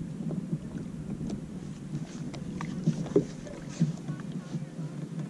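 Water lapping against a kayak hull, with scattered small knocks.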